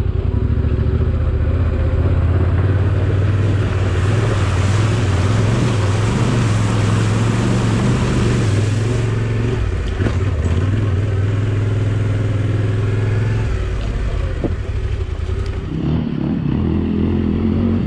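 Motorcycle engine running steadily through a river crossing, with a rushing hiss for several seconds in the middle. The engine note drops and changes near the end.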